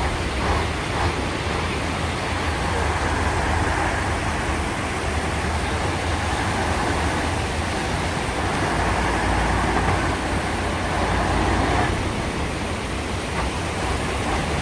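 Heavy truck engine running steadily with a low rumble under a constant rush of noise.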